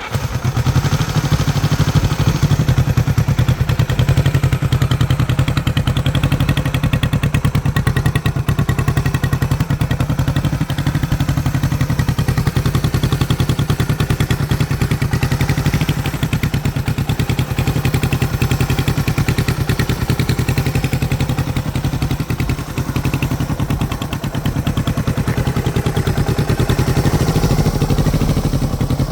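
1967 Honda CB450 K1's 444 cc DOHC parallel-twin engine running through its original exhaust, coming in suddenly at the start and then running steadily with an even pulse.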